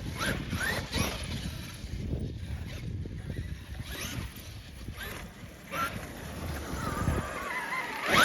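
Traxxas X-Maxx 8S RC monster truck driving over rough ground: the brushless electric motor whines up and down with the throttle over the rumble and crunch of the tyres, with a louder sudden burst near the end.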